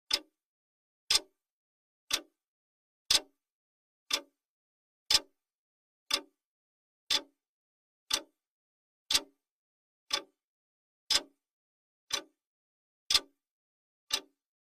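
Clock-style ticking sound of a countdown timer: one short, sharp tick every second, evenly spaced, with silence between ticks.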